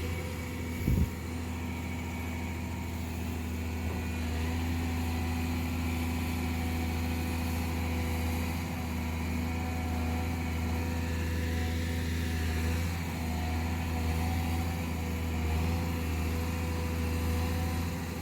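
Large engine running steadily at an even speed, with a short knock about a second in.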